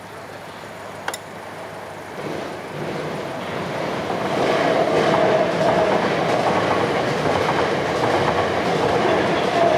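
A pair of coupled Class 455 electric multiple units passing, the sound growing louder over the first few seconds and then running steadily loud. A single sharp click about a second in.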